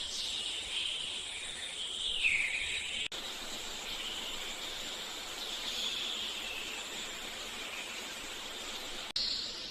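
Steady hiss of gently flowing river water under a continuous high-pitched trill, with a single bird chirp about two seconds in. The ambience cuts off abruptly about three seconds in and again near the end, like spliced recordings.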